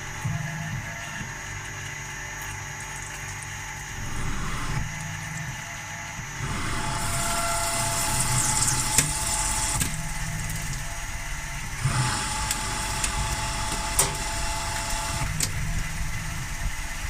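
CNC milling machine running, with a low mechanical pattern that repeats about every three and a half to four seconds. About six seconds in it gets louder and brighter, with occasional sharp clicks.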